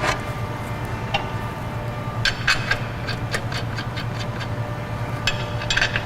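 Light metallic clicks and taps as a truck wheel and its lug nuts are handled and fitted onto the hub, in two short clusters, over a steady low hum.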